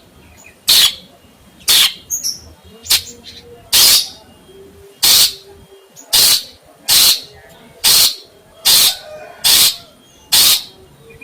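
A bird gives a harsh, hissing call about once a second, each call short and raspy, with about eleven calls in a row.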